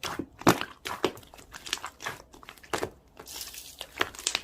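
Slime being squished and worked by hand, crackling and popping in a quick, irregular run of crunchy clicks.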